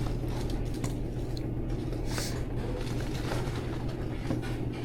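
A steady low machine hum with scattered light clicks and rustles.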